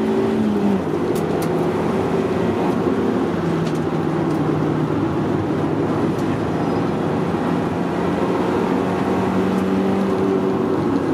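A Honda's engine under way at track speed, heard inside the cabin. Its pitch drops about a second in, then holds fairly steady with small rises and falls through the corners.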